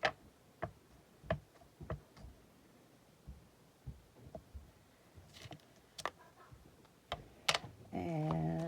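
Scattered light taps and clicks at irregular intervals, with a brief rustle midway: paper and craft supplies being handled and set down on a table. A voice starts humming or speaking near the end.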